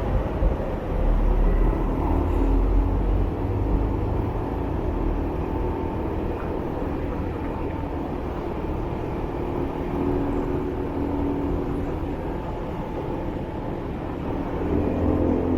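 Motorbike running on the move through city traffic, a steady low rumble that swells for the first few seconds and again near the end.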